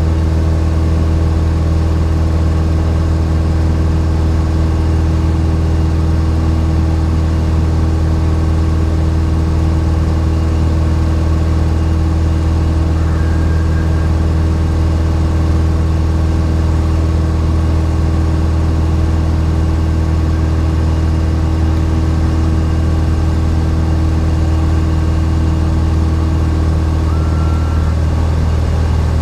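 Cessna 172's piston engine and propeller running steadily in flight, an even, unchanging drone.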